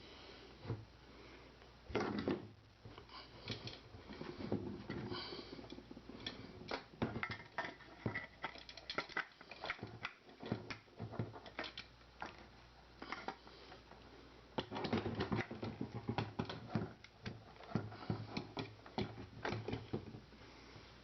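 Irregular small clicks, taps and rattles of small metal rifle parts and tools being handled during reassembly of a Lee Enfield No.4.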